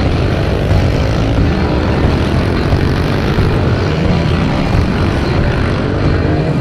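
Several pit bike engines running hard and revving during a race, a loud continuous buzz with pitches wavering up and down.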